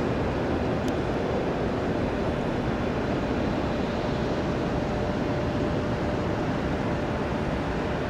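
Steady jet aircraft engine noise, an even rush with a faint steady tone under it.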